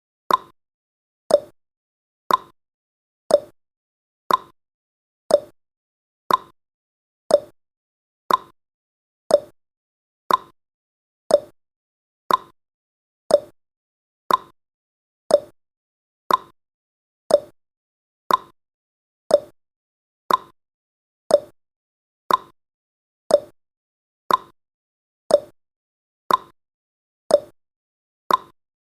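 Countdown timer's ticking sound effect: one short, sharp tick each second, alternating between a higher and a lower tick like a clock's tick-tock.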